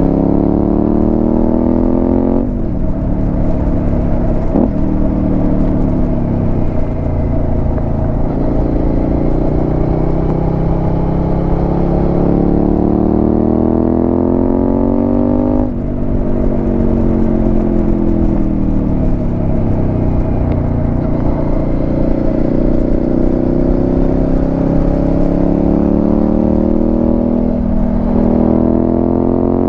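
Suzuki SV650's V-twin engine through a Delkevic aftermarket exhaust while riding. The revs climb and fall throughout, dropping suddenly in pitch about two seconds in and again about halfway, easing down for a few seconds, then climbing steadily toward the end.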